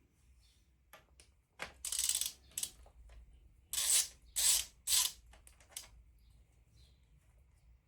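Hand ratchet wrench clicking in short bursts as bolts are worked loose on an engine. The strongest are three bursts about half a second apart, a few seconds in.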